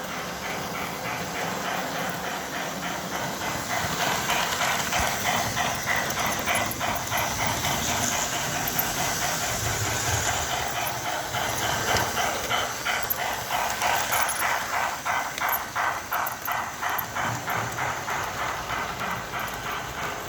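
S-gauge model steam locomotive running on its track, its tender's digital sound board playing a rhythmic hissing steam chuff through a small speaker. The sound grows louder a few seconds in.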